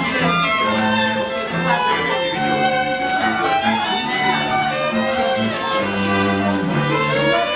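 Bowed string ensemble playing: violins carry sustained melody notes over a moving line of lower string notes.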